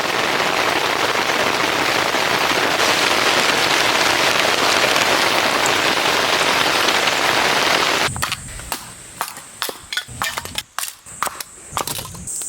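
Heavy rain pouring down in a loud, steady hiss for about eight seconds. It then cuts off suddenly, leaving scattered large drops that land as sharp taps.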